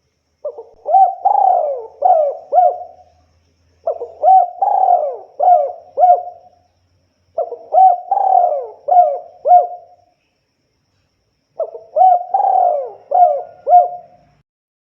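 Spotted dove (tekukur) cooing: four song phrases about three and a half seconds apart, each a run of about five quick coos.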